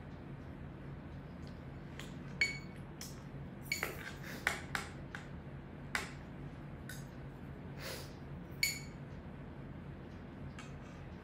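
Spoons and tableware clinking against plates and soup bowls during a meal: scattered sharp clinks, some with a short ring, over a steady low hum.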